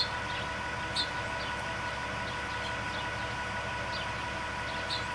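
A few short, high bird chirps: two about a second apart, then more near the end. Under them runs a steady low mechanical hum with a faint whine.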